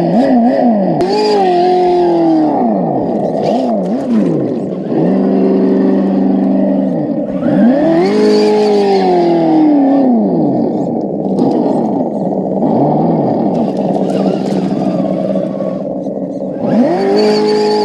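Simulated truck engine sound from an ESS-One sound module, played through the RC truck's small speaker, revving up and falling back again and again with the throttle, with a steady stretch about five seconds in.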